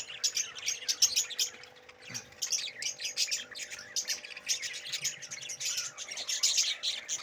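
Many small caged birds chirping at once, a dense overlapping chatter of short high calls that thins briefly about two seconds in.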